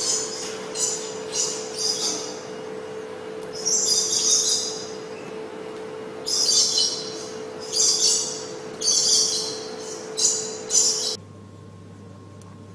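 Short high-pitched chirping calls in quick clusters, about a dozen in all, over a steady hum. About eleven seconds in, the calls and the hum stop abruptly and a quieter steady background follows.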